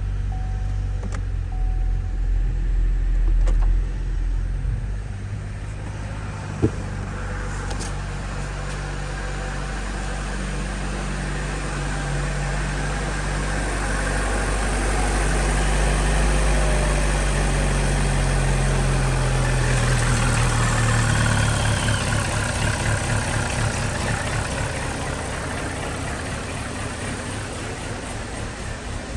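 A 2020 Chevy Trax's 1.4-litre turbocharged four-cylinder engine running. It is held at a higher speed from about fourteen seconds in and drops back to idle about twenty-one seconds in. There is a single sharp click early on.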